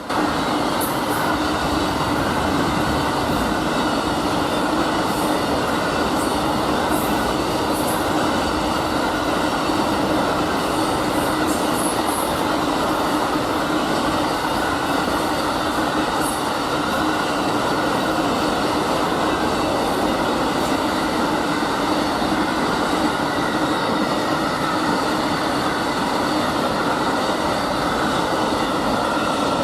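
Amtrak Auto Train 52's cars rolling past on the track in a steady loud rumble, with a steady wheel squeal running through it and a few faint rail clicks in the first half.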